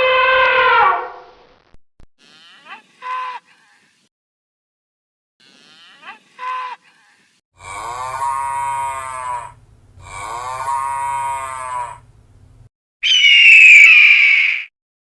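A series of separate animal calls with pauses between them: two short faint calls, then two long drawn-out calls in a row, then a loud, high, shrill call near the end.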